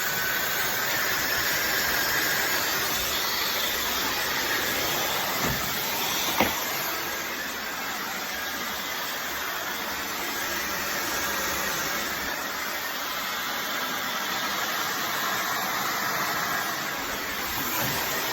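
Small handheld blow dryer running steadily, blowing air through a hose into a soft bonnet hood dryer: an even rushing hiss. A brief click about six seconds in.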